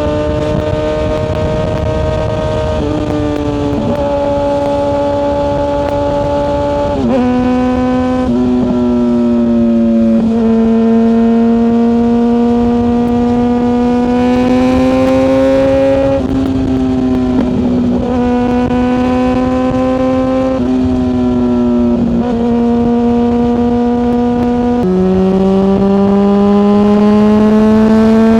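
Yamaha FZ6S 600cc inline-four motorcycle engine pulling and cruising through the gears. The engine note holds level or climbs slowly, then steps suddenly in pitch at each of about seven gear changes, over a steady rush of wind and road noise.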